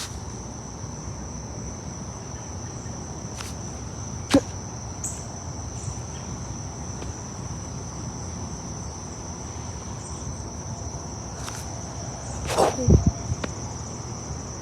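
Crickets chirring in a steady, high-pitched chorus, with a sharp click about four seconds in and a louder knock and rumble near the end.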